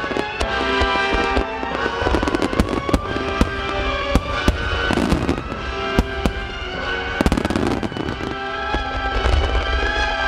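Fireworks bursting in a dense barrage, many sharp bangs and crackling with a low rumble beneath, loudest in a cluster of bangs a little past halfway. Music with long held notes plays underneath throughout.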